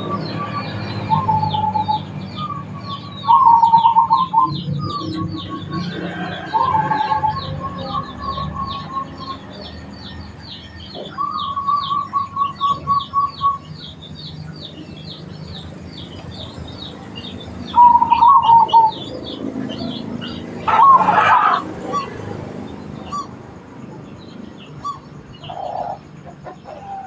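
Zebra doves (perkutut) cooing: short, loud rolling coos repeated every second or two, some broken into quick trills. Behind them runs a steady fast, high chirping at about four notes a second.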